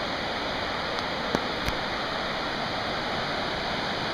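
Steady rush of Muddy Creek's rapids, with two small knocks about a second and a half in.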